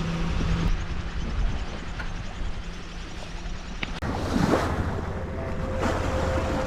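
Wind and sea noise aboard a sailing boat under way, with wind buffeting the microphone.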